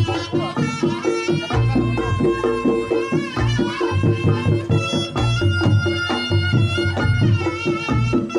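Reog Ponorogo gamelan music: a slompret (Javanese reed shawm) plays a wavering melody over kendang drum strokes and steadily sounding gongs.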